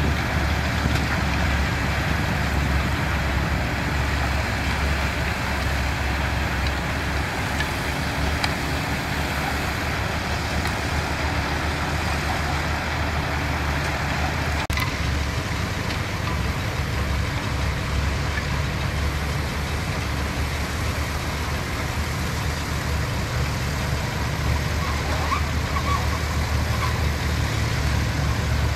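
Diesel engines of construction machinery running steadily with a deep, low hum. A sudden break about halfway through shifts the engine sound slightly.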